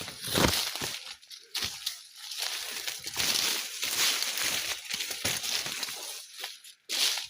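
Footsteps crunching over dry ground, an uneven run of crunches and scuffs at walking pace.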